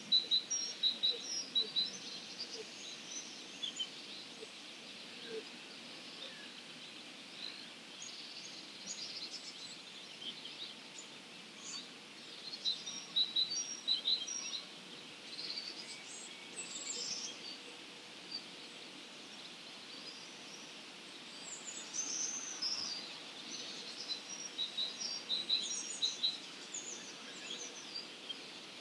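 Several wild songbirds chirping and singing in short, high notes in an early-morning chorus, over a steady background hiss of outdoor noise.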